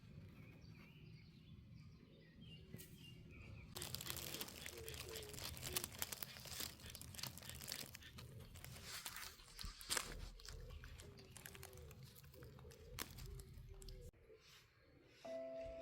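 Close rustling and crunching, starting about four seconds in and lasting about ten seconds, over faint short animal calls.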